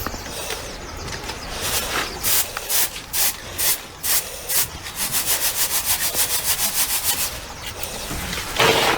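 Repeated scraping or rubbing strokes, spaced irregularly at first, then a quick even run of about five strokes a second for a couple of seconds, with a louder scrape near the end.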